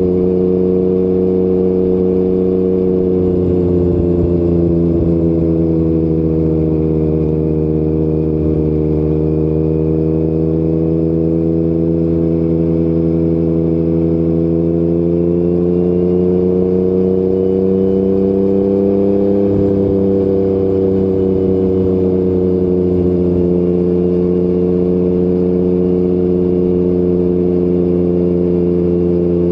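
Yamaha MT-09 inline-three engine with an Akrapovic exhaust running at steady cruising revs, its pitch drifting gently up and down as the throttle changes.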